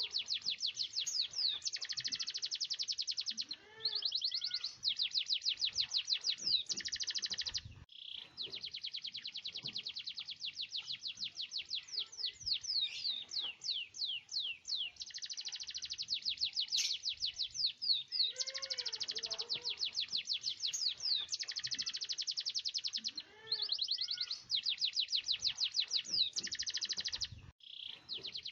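Domestic canary in full song: long, fast rolling trills and sharp high notes, phrase after phrase with only brief pauses between them.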